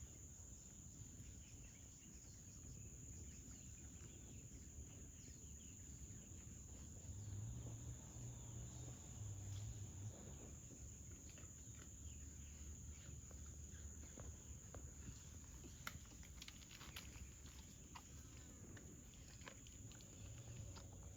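Faint, steady high-pitched insect trill of crickets, with low, soft rustling underneath and a few light clicks later on.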